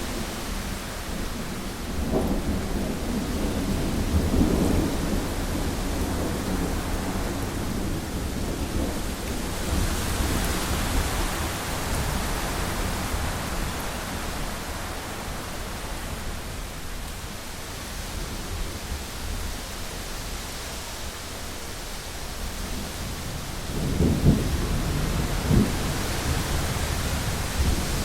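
Heavy rain pattering on a window pane, a steady hiss, with rolling thunder. Low rumbles of thunder come a couple of seconds in and again near the end, and the rain hiss swells about ten seconds in.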